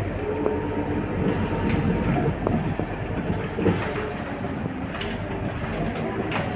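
Scania K230UB single-deck bus running on the road: a steady low engine and road drone, with a few sharp clicks and rattles from the body.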